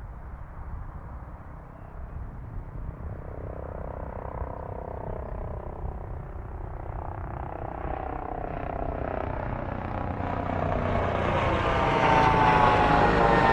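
Airliner on approach to land, its engine noise growing steadily louder as it comes closer, with a whine of several tones that shifts slightly in pitch and is loudest near the end.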